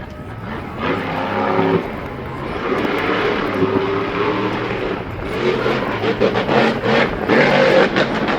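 Vehicle engine running and revving, its pitch rising and falling. It grows louder and rougher about five seconds in.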